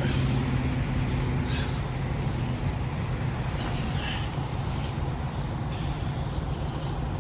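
Steady low hum of an idling semi-truck diesel engine, with two short hissing puffs about a second and a half and four seconds in.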